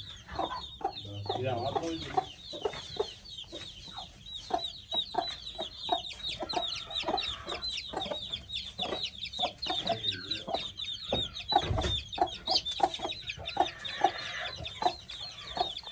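A hen clucking steadily over a continuous chorus of high, rapid peeping from chicks.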